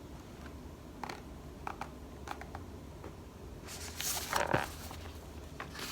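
Picture-book page being turned: a few faint handling clicks, then a short paper rustle about four seconds in.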